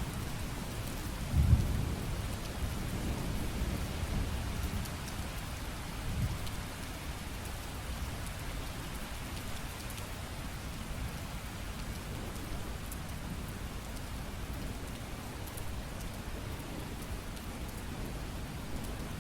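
Steady rain falling, with a low rumble of thunder that swells sharply about one and a half seconds in, surges again briefly around six seconds, then dies away under the hiss of the rain.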